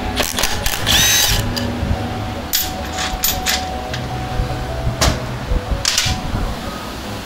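Handheld power tool running in short bursts, the longest about a second in with its pitch rising and falling, followed by several sharp clicks and taps of tools on metal.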